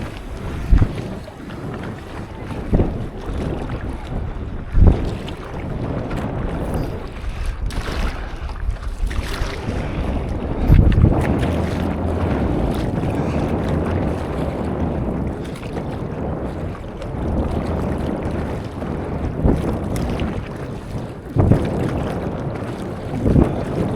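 Seawater sloshing and splashing around a stand-up paddleboard, with wind buffeting the microphone. Sharp splashes or knocks come every few seconds, louder about eleven seconds in.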